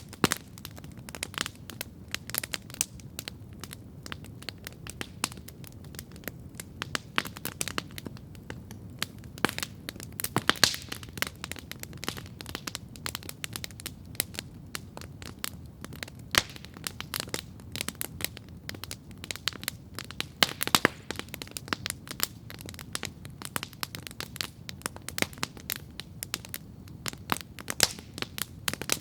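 Campfire crackling steadily: a dense run of irregular wood pops and snaps over a low steady hiss of the flames, with a few louder sharp pops about ten and twenty seconds in.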